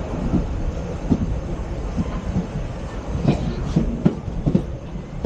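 ICF passenger coaches running along the track: a steady low rumble with irregular clacks of the wheels over rail joints, the clacks coming closer together in the second half.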